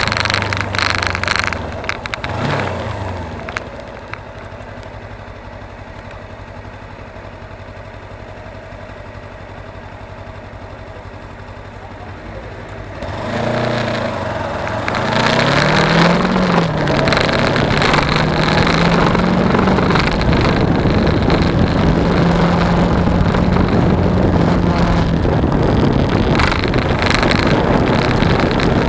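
Suzuki V-Strom 250 parallel-twin motorcycle engine with wind noise on the action-camera microphone: the bike slows and the engine drops in pitch, then runs quietly at low revs for about nine seconds. About thirteen seconds in it pulls away, the revs rising and dipping through a gear change, and it settles into steady riding with loud wind rush.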